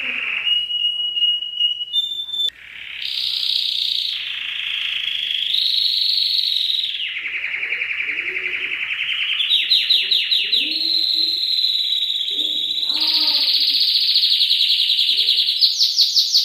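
Domestic canary singing continuously: a long song of rolling trills in changing phrases, each held a second or two and stepping up and down in pitch, with fast rattling trills near the middle and again near the end.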